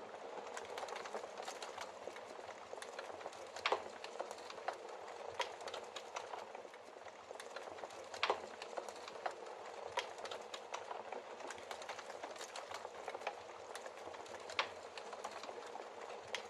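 Wood fire of burning logs crackling: a steady hiss of flames with frequent sharp pops and snaps, the loudest a few seconds apart.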